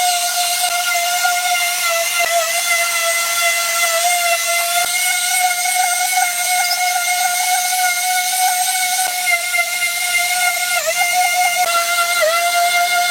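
Electric power tool running with a steady high whine and a hiss over it, its pitch dipping briefly a few times as it is loaded against the work.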